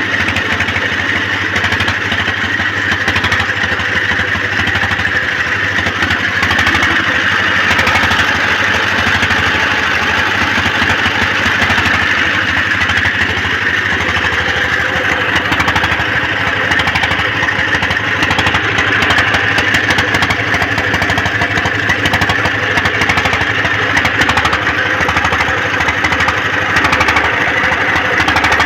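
Single-cylinder four-stroke 1Ch8.5/11 diesel engine of a generator set running steadily, with its firing pulses coming in a fast, even knock.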